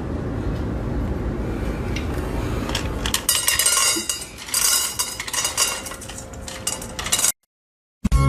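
A low rumbling noise, then from about three seconds in a quick run of clinks and clatters of small hard objects, like dishes or cutlery knocking together, that stops abruptly near the end.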